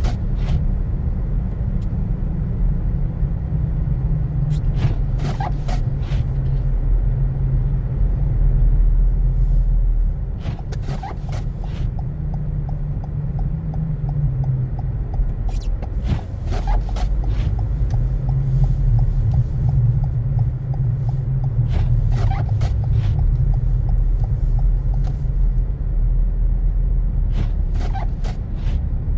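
Car driving on a snow-covered road: a steady low rumble of engine and tyres, with a short burst of clicks recurring about every five and a half seconds.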